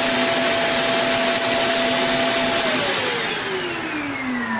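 Shark Navigator ZU62C upright vacuum's motor running at a steady whine. About two and a half seconds in it is switched off and winds down, its whine falling in pitch as the airflow noise fades.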